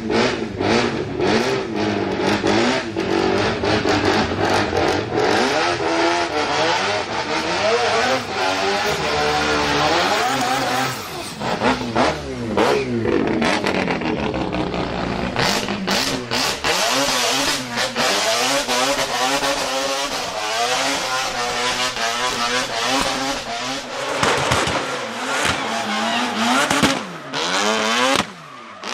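Drift car engine revving hard, its pitch climbing and falling again and again as the throttle is worked.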